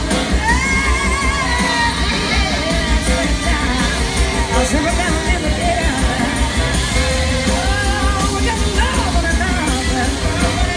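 Live blues-rock band playing at full volume: steady drums and bass under melodic lines that slide up and down in pitch.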